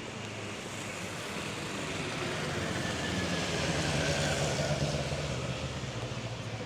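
A car driving past on a wet road: engine and tyre hiss swell to a peak about four seconds in, then fade away.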